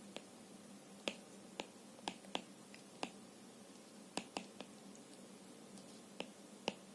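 About a dozen faint, sharp clicks at irregular intervals, some in quick pairs, over a quiet steady hiss.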